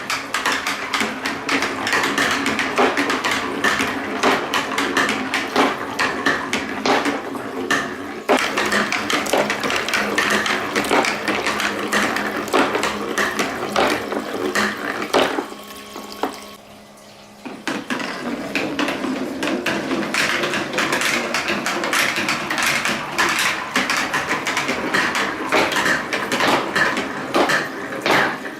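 Many marbles clattering down a plastic TrixTrack wave-slope marble run, a dense stream of small clicks and knocks. About halfway through the clatter drops away for two seconds before it picks up again.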